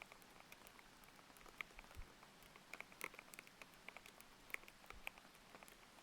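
Mechanical keyboard with Aqua King linear switches being typed on: quiet, irregular keystroke clicks, over a faint steady rain hiss. Two deeper thuds come about two and five seconds in.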